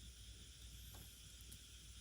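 Faint wood fire burning with a steady hiss and one soft crackle about a second in.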